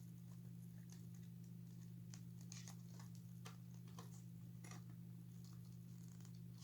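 Faint scattered clicks and scrapes as a screwdriver pries a long metal staple out of an animatronic doll's arm, over a steady low hum.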